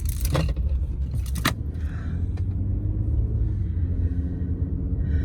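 Steady low rumble of a car heard from inside the cabin, with two sharp knocks in the first second and a half.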